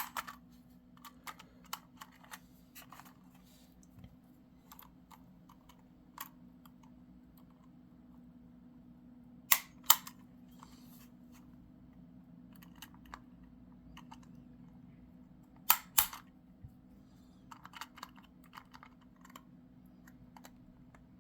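Small plastic clicks and taps of tight-fitting model-railway couplers being worked out of their NEM sockets on a freight wagon, with two louder double snaps, about midway and about three-quarters through. A steady low hum runs underneath.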